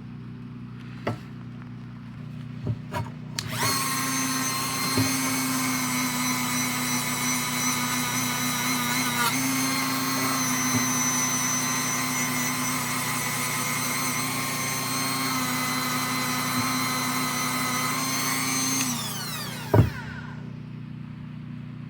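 Dremel rotary tool starts about three seconds in and runs steadily at high speed against a BMX chainring, its pitch dipping briefly under load, then winds down near the end. A single sharp knock follows as it stops.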